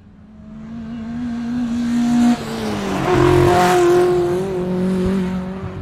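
Car engine sound effect in an intro: a steady engine note building up in loudness, shifting pitch a little past two seconds in, loudest near the middle, then fading near the end.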